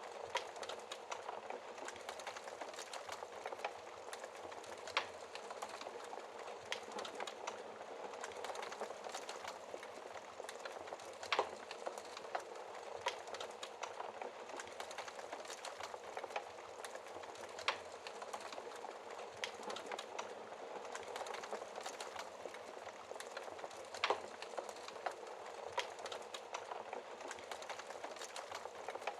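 Burning logs in a fireplace crackling: a steady hiss with frequent small ticks and a few louder, sharper pops about every six seconds.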